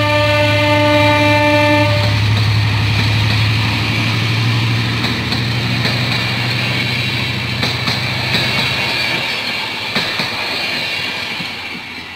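Diesel-hauled passenger train passing and pulling away. The locomotive's horn sounds until about two seconds in, then the diesel engine's low hum fades under the steady rumble of the coaches' wheels on the rails, with a few sharp wheel clicks near the end as the train recedes.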